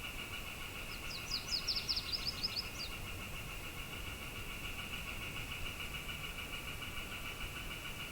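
A bird sings a quick run of about a dozen sharp, high, falling notes about a second in, over a steady high pulsing chorus and a low wind rumble in the desert canyon.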